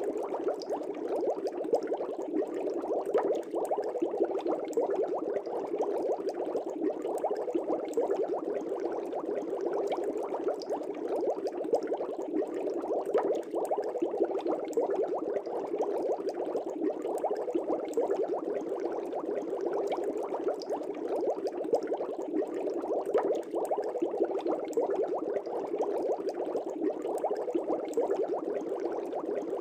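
Aquarium air bubbles rising and breaking at the water surface in a continuous, steady bubbling, with small pops throughout.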